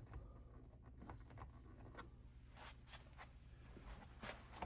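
Near silence: a low steady hum with several faint, scattered clicks and taps, like small handling noises on the bench.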